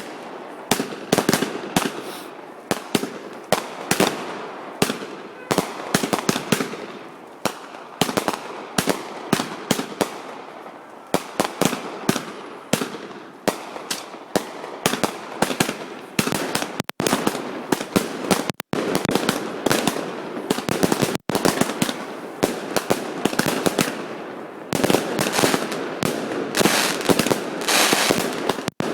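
Fireworks display: a dense, continuous barrage of sharp bangs and crackling, with several bursts going off each second. The sound cuts out completely for an instant a few times in the second half.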